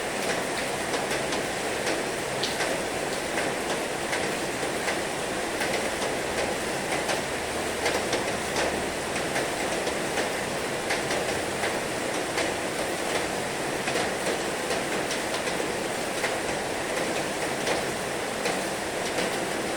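Heavy rain falling steadily: a dense even hiss scattered with many sharp drop hits.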